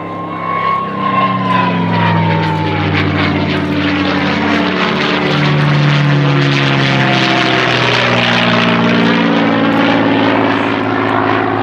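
P-51D Mustang's Packard-built Merlin V-12 and propeller as it flies past, swelling to its loudest in the middle and easing off near the end, with the pitch of the engine shifting as it passes. A thin whistle falls in pitch over the first three seconds.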